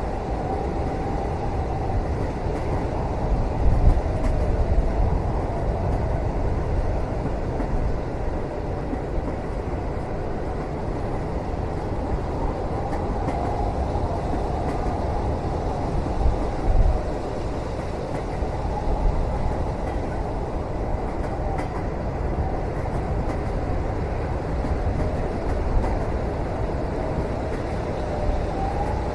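Passenger train running on the rails, heard from inside the cabin: a steady low rumble with a faint wavering whine and a couple of soft jolts, about 4 seconds in and again past the middle.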